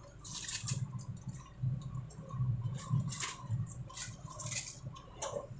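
Pechay (bok choy) leaves being handled and dropped into a pot of simmering fish soup: a string of irregular rustling, crackling noises, roughly one or two a second.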